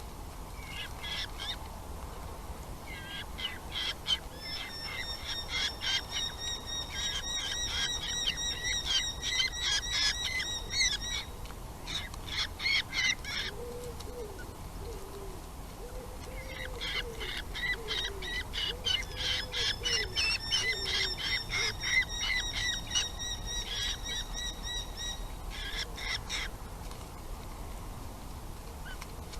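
Nestlings begging in the nest with rapid, high chattering calls, coming in several bouts of a few seconds each with short pauses between, as the parents bring food.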